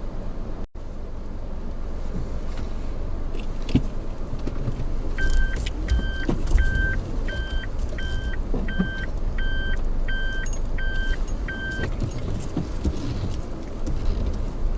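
A vehicle running with a steady low rumble. In the middle comes a run of about ten short electronic beeps at a steady pitch, spaced a little over half a second apart.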